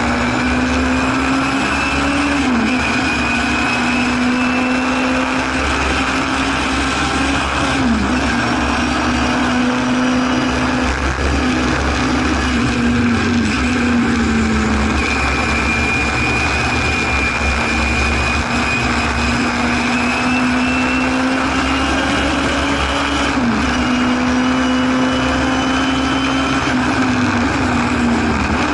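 Singer Chamois (Hillman Imp-based) racing saloon's rear-mounted four-cylinder engine heard from inside the cabin at full racing speed. The engine note climbs steadily under acceleration and drops sharply at each gear change, several times, over steady wind and road noise.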